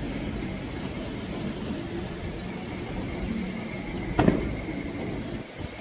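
Fireworks display: a low, continuous rumble, then a single sharp firework bang about four seconds in.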